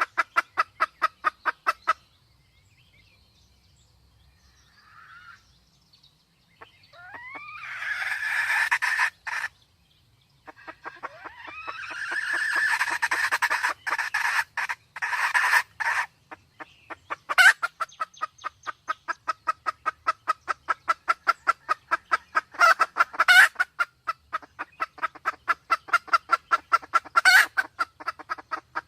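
Red junglefowl calling in long trains of rapid, even clucks, several a second, of the kind the track sells as a hen in heat. Near the middle comes a louder, harsher stretch of calling with rising notes, and a few sharp clicks cut through the later clucking.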